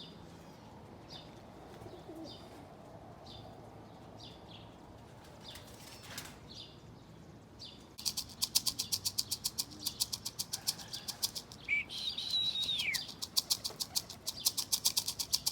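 Faint, short bird chirps, then from about halfway the rapid, even wingbeats of pigeons flying close by as they circle to come down. A single falling whistle sounds about three-quarters of the way through.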